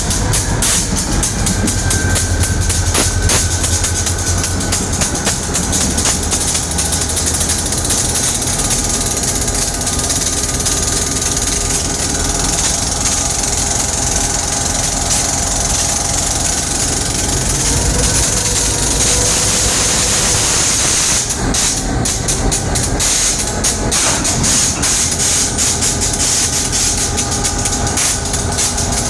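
Diesel locomotives moving slowly on the track, with many sharp clicks from the wheels and a steady hiss. A steadier high hiss runs through the middle stretch, and the clicking picks up again near the end.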